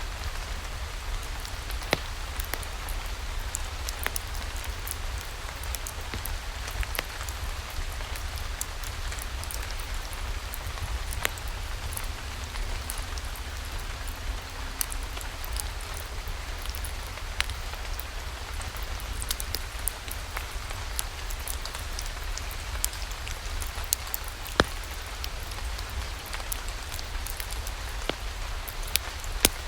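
Steady rain falling, with scattered sharp clicks of individual drops throughout and a low rumble underneath.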